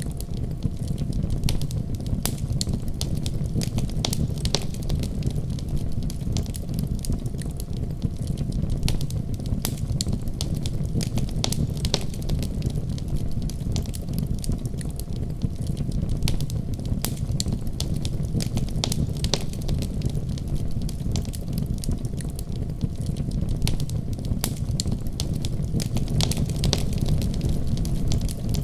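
Wood fire burning steadily, with a low rumble of flames and frequent sharp crackles and pops.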